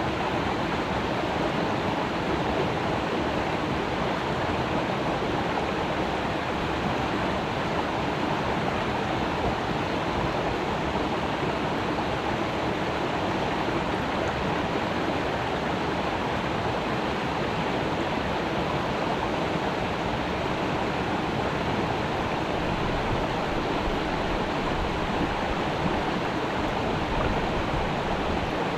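A creek's water running over rocks, a steady rushing noise that doesn't change.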